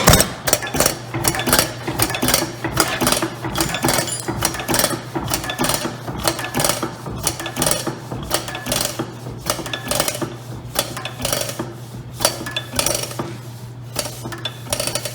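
Old Bovard & Company stationary engine running on hot-tube ignition, with a rapid, uneven clatter of firing and valve gear over a steady hum. Near the end the strokes space out and grow quieter as the engine is shut down and runs down.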